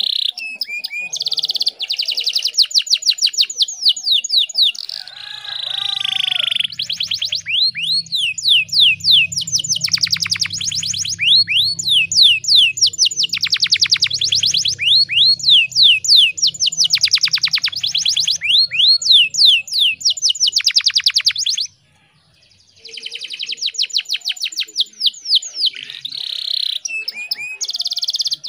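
Domestic canary singing: long rolling trills of fast repeated notes in phrase after phrase, with a pause of about a second around three-quarters of the way through.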